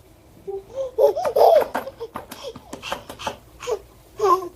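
A young child laughing in a run of short bursts, loudest about a second in.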